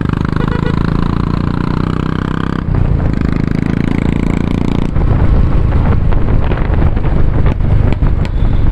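2019 Royal Enfield Classic 350's single-cylinder engine and exhaust running steadily under way, with a brief dip about two and a half seconds in. From about five seconds in, wind buffeting on the microphone rumbles over it.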